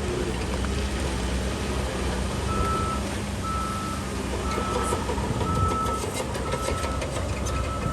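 Back-up alarm on heavy earthmoving machinery beeping about once a second, each beep about half a second long, over a diesel engine running. A clatter of clicks joins in about halfway through.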